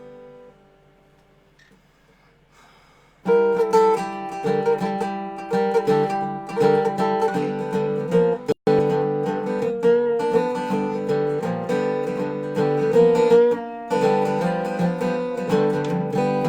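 Dobro resonator guitar being picked: the last notes die away, there is a pause of about three seconds, then playing resumes with a run of picked notes and chords. Around eight seconds in, the sound cuts out completely for an instant.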